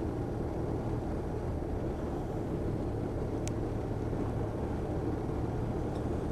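Motorcycle engine running steadily with road and wind noise while riding at a constant speed.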